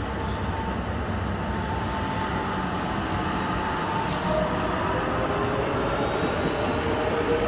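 Tram running on its rails: a steady rumble with faint whining tones that slowly shift in pitch, and a short hiss about four seconds in.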